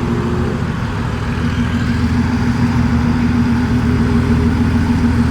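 Car engine and exhaust running at a steady low speed, a deep hum that holds one pitch and gets slightly louder partway through.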